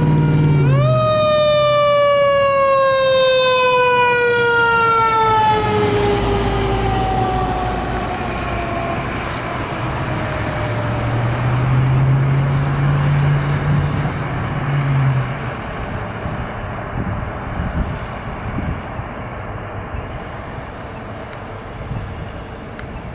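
Fire truck siren sounding as the truck passes, with rumble and road noise. The siren rises briefly, then winds down in a long, slow falling wail. A low steady tone sounds for several seconds in the middle, and the noise then fades away.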